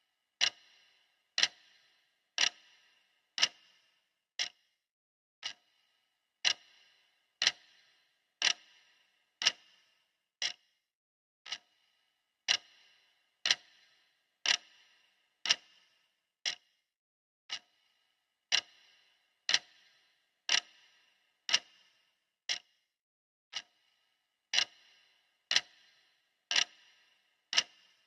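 Clock ticking steadily at one tick per second, the pace of a countdown timer, each tick short and sharp with a brief ring and some ticks louder than others.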